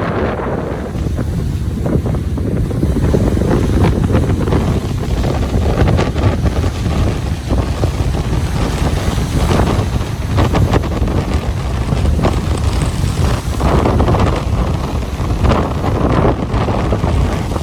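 Ocean waves surging and breaking on a beach, with wind buffeting the microphone as a steady low rumble.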